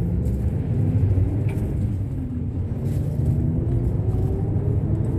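Steady rumble of a moving bus, engine and road noise, with the engine note slowly rising.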